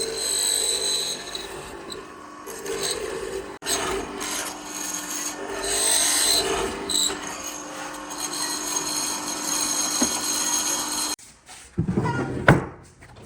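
A tool working wood with a rasping, rubbing sound over a steady whine. It stops about eleven seconds in, followed by a couple of sharp knocks.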